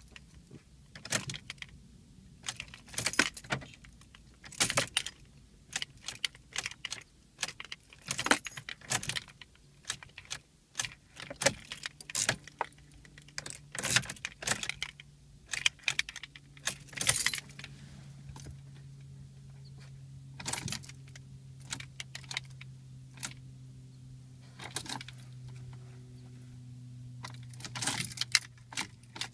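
Car keys on a key ring jangling in the ignition as the key is turned again and again. The engine does not crank; a steady low hum comes in about a third of the way through and keeps going.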